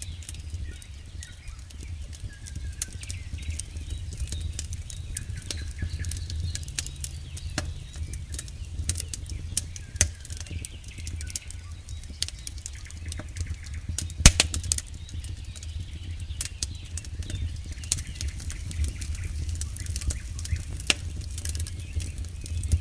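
Wood campfire crackling, with frequent sharp pops and snaps over a steady low rumble of the flames; one pop about 14 seconds in is much louder than the rest.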